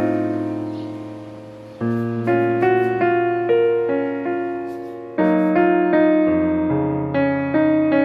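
Background piano music: a slow, gentle melody over sustained bass notes, the phrases fading out and starting again about 2 and 5 seconds in.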